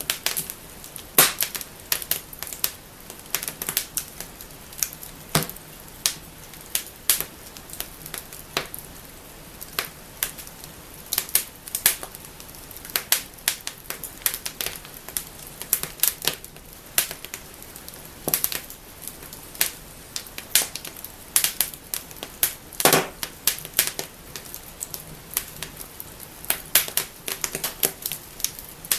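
Wood fire burning in a fireplace, crackling and snapping: irregular sharp pops every fraction of a second over a faint steady hiss, with a few louder snaps.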